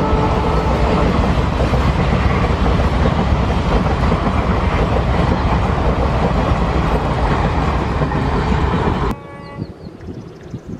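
Indian Railways passenger coaches rolling past close by: a loud, steady rumble and clatter of wheels on the rails. It cuts off abruptly about nine seconds in, leaving a much quieter, distant sound.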